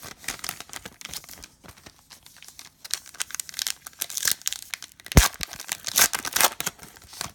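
Foil trading-card pack being torn open and crinkled by hand, irregular crackling rustles that get louder in the second half, with a sharp snap about five seconds in.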